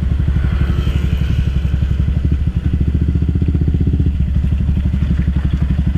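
Motorcycle engine running with a steady, rapid low exhaust pulse.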